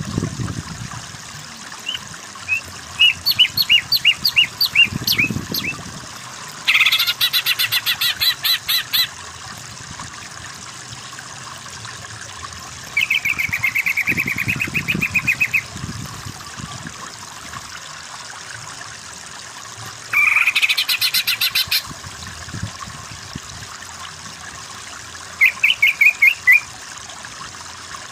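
Cucak ijo (green leafbird) singing in separate bursts: first a run of short chirps, then fast rattling trills several times. A steady hiss like running water sits behind the song.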